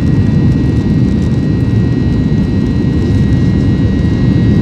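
Boeing 737-800's CFM56 jet engines heard inside the cabin: a loud, steady low rumble with a constant high fan whine over it.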